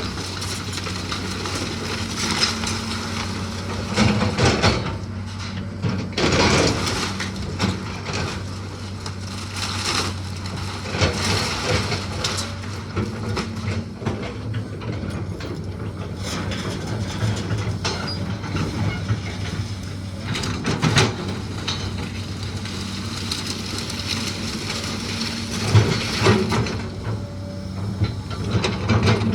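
A machine's engine running steadily while old timber framing of a house cracks, splinters and crashes down in irregular bursts during demolition.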